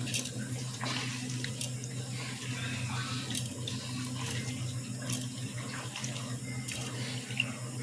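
Hands squeezing and kneading sliced banana heart in salted water in a bowl, with irregular splashing and sloshing as the sap is worked out. A steady low hum runs underneath.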